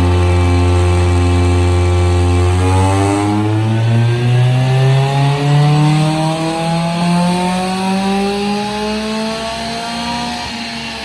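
A small engine running at a steady speed, then revving slowly and smoothly higher over several seconds, dipping slightly near the end.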